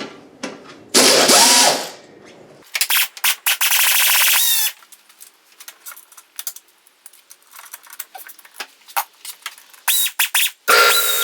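Power tool run in about four bursts to loosen fasteners, its motor whine rising in pitch as some bursts start, with light clicks and knocks between them.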